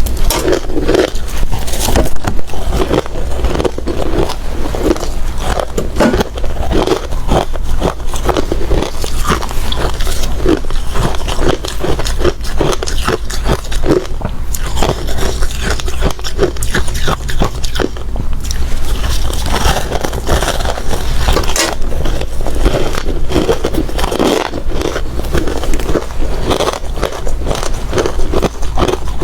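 Hard ice being bitten and chewed close to the microphone: a continuous run of loud crunches and cracks, several a second.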